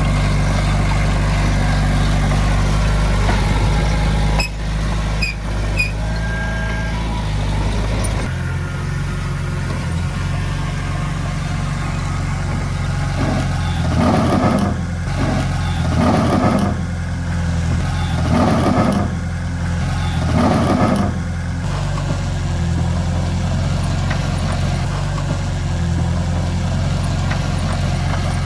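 Heavy diesel earthmoving machinery running steadily, with a few sharp clanks about four to six seconds in. In the middle the engine note swells four times, about two seconds apart.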